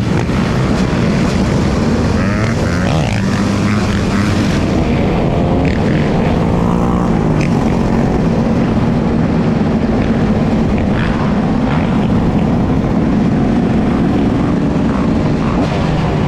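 Dirt bike engine running while riding, its pitch rising and falling as the throttle opens and closes, over steady wind and road noise.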